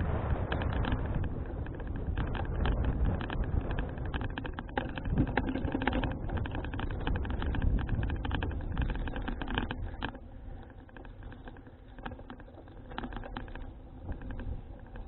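Wind buffeting an action camera's microphone on a moving folding bicycle, with a steady low rumble and many small clicks and rattles from the bike. It turns quieter about ten seconds in.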